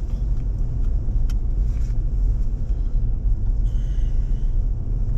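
Car being driven: a steady low rumble of engine and road noise, with a faint click a little over a second in.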